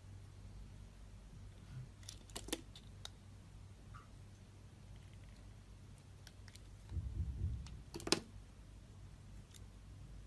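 Knife cutting into a bar of soap: scattered crisp clicks and cracks, a low rubbing sound about seven seconds in, then the loudest sharp crack just after.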